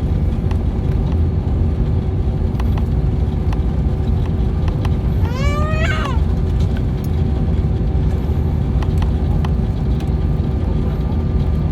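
Steady, loud low rumble of an airliner cabin in flight, with a constant hum over it. About five seconds in there is a brief rising cry.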